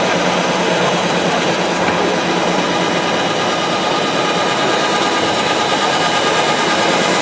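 Power tool running steadily with a hissing whine.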